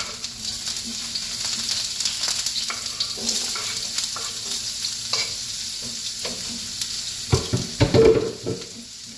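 Chopped garlic and sliced red onion sizzling in a hot nonstick frying pan, with the clicks and scrapes of a wooden spoon pushing the onion off a wooden cutting board into the pan and stirring it. A few louder knocks come near the end.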